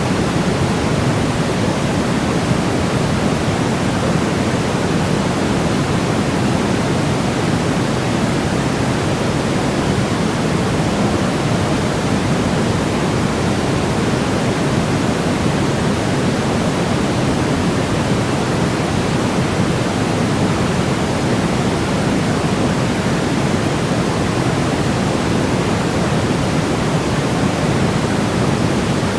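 Steady, unbroken sleep-aid noise, a constant even hiss weighted toward the low end so it sounds deep rather than sharp. It holds the same level throughout, with no changes or events.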